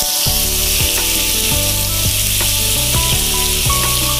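Grated beetroot frying in hot oil in a pan, with a steady sizzle and a few light knocks, likely from stirring.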